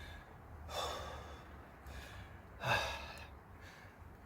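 A man breathing hard from push-up exertion: two heavy, noisy breaths, about a second in and again near three seconds in.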